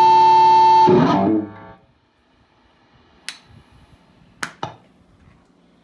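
Distorted electric guitar through a VHT Deliverance D60 tube amp: a long steady held note that stops about a second in with a short jumble of string noise as the strings are muted, then dies away. Near-quiet follows, broken by three sharp clicks.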